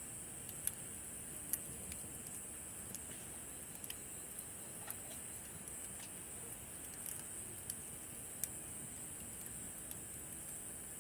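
Wood campfire crackling, with sharp irregular pops every second or so, over a steady high-pitched chirring of summer night insects.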